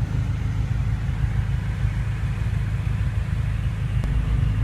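A 2014 BMW M5's twin-turbo V8 idling, a low steady rumble, with a light click about four seconds in.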